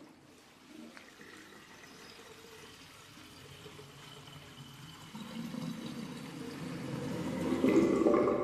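Rushing, gushing water, swelling steadily louder and loudest just before the end.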